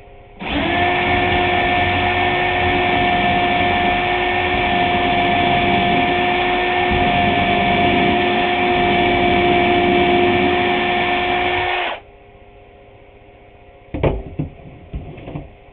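Electric drill running at steady speed for about eleven seconds, boring a hole into a wooden trim board, then stopping abruptly. A few knocks and clatters follow near the end.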